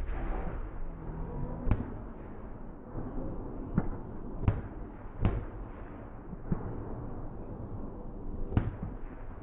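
Fireworks going off: about six sharp bangs at irregular intervals over a steady background noise.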